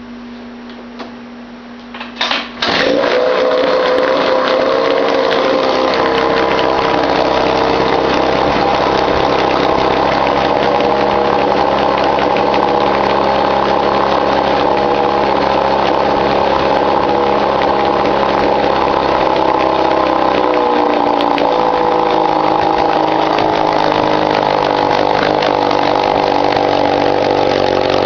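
1953 Mercury Mark 15 two-stroke outboard motor starting about two seconds in after a couple of short bursts, then running steadily out of the water, easing to a slightly lower speed about two-thirds of the way through. It runs smoothly now that its carburetor float height has been corrected to cure flooding.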